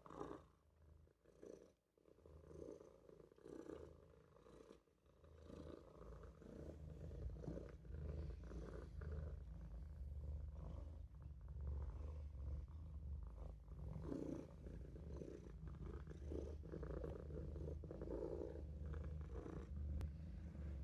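Maine Coon kitten purring, a faint low rumble that is uneven for the first few seconds, then steadier and a little louder.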